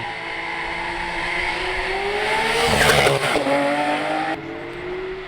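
Porsche 911 GT3's flat-six engine accelerating hard, its pitch rising, then dropping suddenly about three seconds in at a gear change before climbing again. A brief loud rush of noise comes just before the shift.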